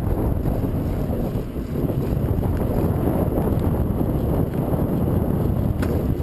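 Wind buffeting the microphone of a camera on a bicycle riding into a headwind: a steady low rumble, with a single brief click near the end.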